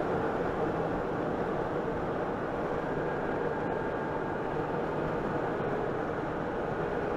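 Honda Gold Wing motorcycle riding at a steady pace: an even, unchanging drone of engine and wind noise with a faint steady hum.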